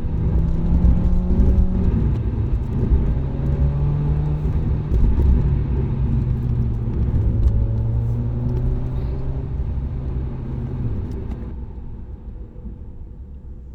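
Car engine and aftermarket exhaust rumbling as the car drives, its pitch dropping in a few steps as it slows. The engine note fades out near the end.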